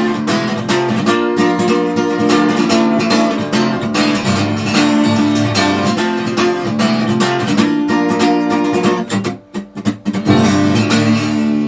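Acoustic guitar strumming chords in a steady rhythm, with a short break about nine seconds in before the strumming returns.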